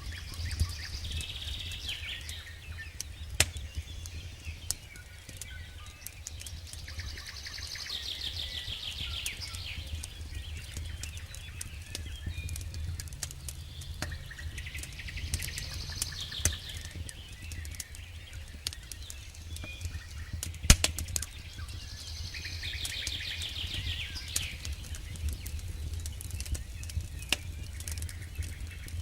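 Campfire crackling, with scattered sharp pops from the burning logs, the loudest a little past two-thirds of the way through. A bird sings a short trilled phrase about every seven seconds.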